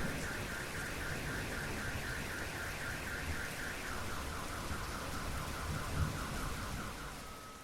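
Steady rain with an electronic alarm going off over it: a fast repeating warbling tone that steps down in pitch about four seconds in and fades out near the end.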